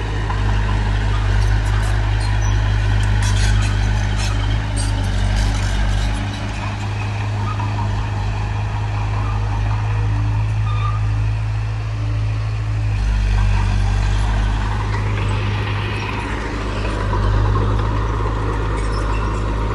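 Heavy diesel construction machinery running steadily, a bulldozer and dump trucks at work. There are some scattered clanks in the first few seconds, and the engine note shifts about two-thirds of the way through.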